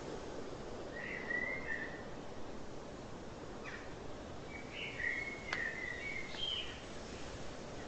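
Outdoor ambience: a steady background hiss with a few short bird calls, one about a second in, another near four seconds, and a longer run of calls from about five to nearly seven seconds, with a single sharp click in the middle of it.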